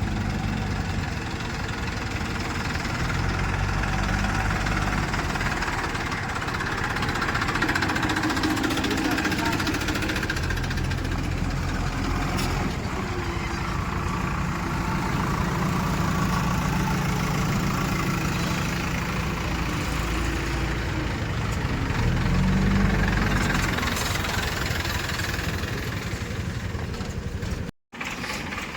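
Heavy diesel engine running and working under varying throttle, its revs rising and falling, with a marked rise about 22 seconds in.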